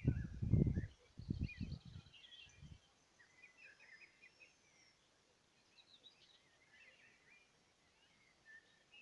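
Several songbirds chirping and singing, a mix of short high calls and trills throughout. A few loud, low rumbling bursts in the first three seconds.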